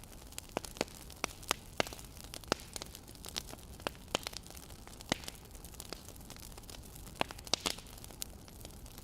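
Wood fire crackling: irregular sharp pops and snaps, clustered at times, over a faint steady hiss.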